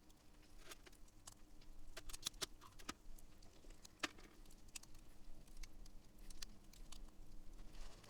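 Wood campfire crackling, with irregular sharp pops and snaps; the loudest snap comes about four seconds in.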